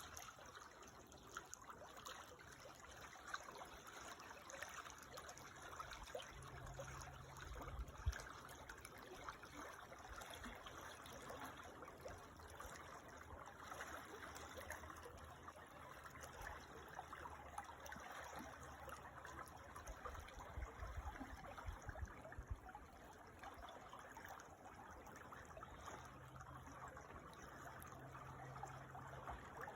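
Creek water trickling and babbling steadily over stones, quiet and even. A faint low rumble comes and goes underneath.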